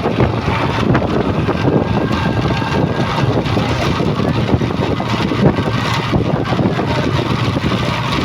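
Heavy truck engines running steadily, a loud continuous rumble.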